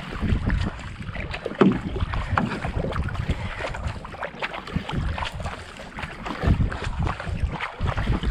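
Kayak paddle blades dipping and splashing in the water stroke after stroke, with wind buffeting the microphone in low rumbling gusts.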